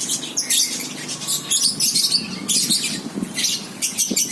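A group of caged pet birds chirping and squawking in rapid, overlapping high-pitched calls.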